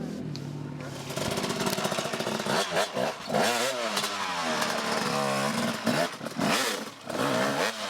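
Off-road motorcycle engine, steady at first, then from about a second in revving hard, its pitch rising and falling again and again as the throttle is worked.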